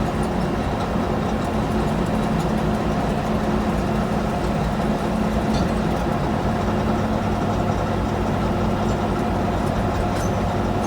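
Engine running steadily at an even speed, a constant low hum with no revving.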